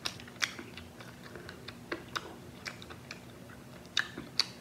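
Close-miked chewing of crispy fried chicken, the crunchy coating crackling in short, sharp clicks, with two louder crunches near the end.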